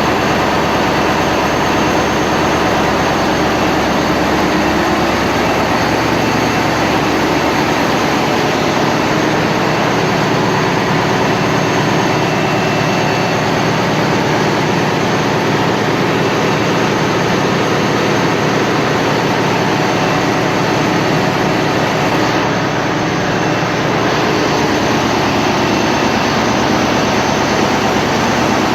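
Mitsubishi S8U-C2 MPTK marine diesel engine running steadily after periodic maintenance, a loud, even, continuous engine noise.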